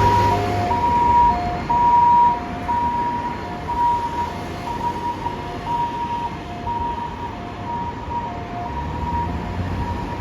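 Ambulance two-tone hi-lo siren alternating between a high and a low note about once a second as the ambulance sets out on an emergency call. It is loudest in the first two seconds, then fainter as it moves away.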